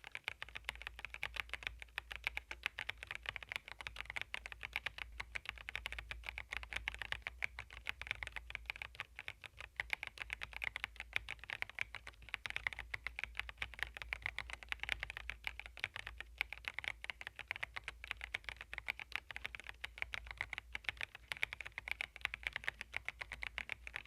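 Continuous fast typing on an Epomaker RT65 mechanical keyboard: a dense stream of key clicks with no real pauses.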